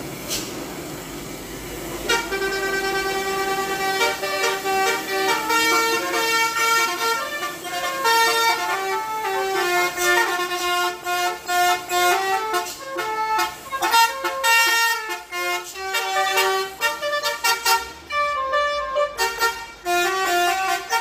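Bus's multi-tone musical horn playing a tune of quick stepping notes, starting about two seconds in and running on.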